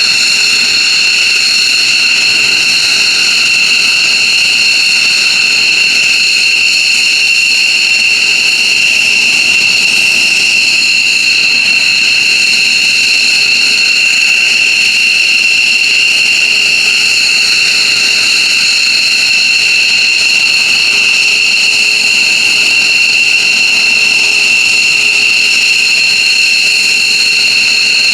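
F-15J Eagle fighter's jet engines running steadily: a loud, even, high-pitched whine of several piercing tones that holds without change.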